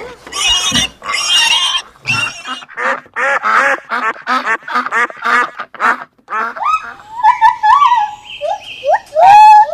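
A quick run of short animal calls, about three or four a second, followed by a few longer calls that slide up and down in pitch, with a loud harsh call near the end.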